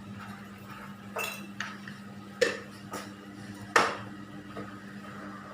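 Kitchen utensils knocking and clinking against pots and dishes, about five separate strikes with short ringing, the loudest near the end, over a steady low hum.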